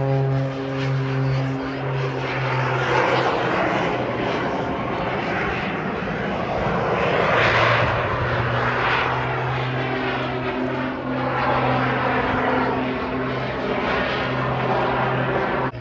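Jet-assisted Pitts Special aerobatic biplane in flight, its Lycoming piston engine and small jet engines running together. A steady engine drone sits under a rushing jet whoosh that swells and fades several times as the aircraft manoeuvres, loudest about halfway through.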